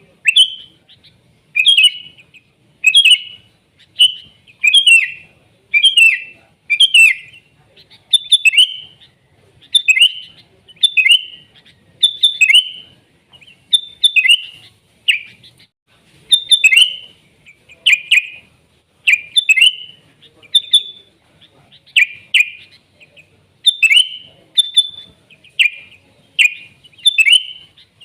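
Sooty-headed bulbul (kutilang) singing vigorously: short, clear chirping phrases repeated about once a second.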